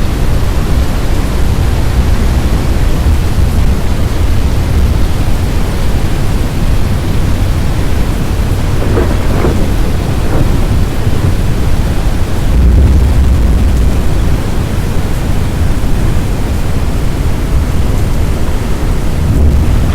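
Strong storm wind buffeting the microphone: a loud, steady low rumble that surges harder about two-thirds of the way through, with rain noise mixed in.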